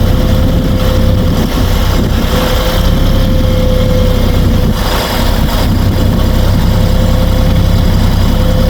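Kioti 3520HST compact tractor's diesel engine running steadily close by, with a steady high whine over it.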